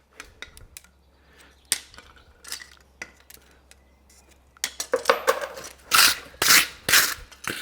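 Light metallic clinks and taps as a steel horseshoe is handled, then from about halfway a run of quick rasp strokes on the shoe, about two a second, during its final clean-up.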